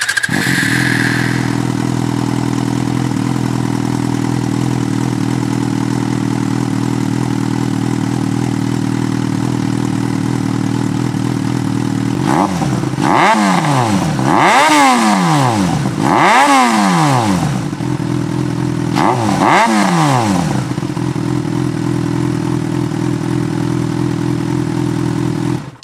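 Motorcycle engine idling steadily through its exhaust, then revved in about five quick blips, each rising and falling in pitch, a little past the middle, before settling back to idle.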